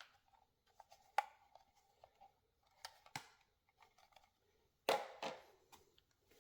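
Vacuum parts and their packaging being handled: scattered light clicks and short rustles, with a louder, longer rustle about five seconds in.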